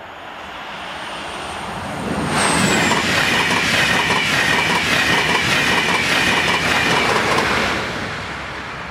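Railjet passenger train passing through a level crossing at speed. It builds as it approaches, and a thin high whine drops in pitch as the front goes by about two and a half seconds in. Then comes a loud, rapid clatter of wheels over the rails for about five seconds, which fades away near the end.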